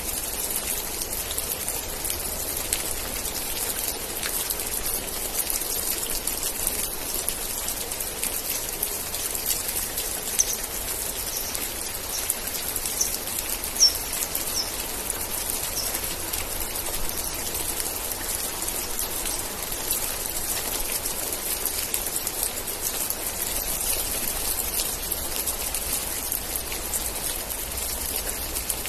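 Steady rain falling, with a dense patter of individual drops. A few short high chirps sound about a third of the way through.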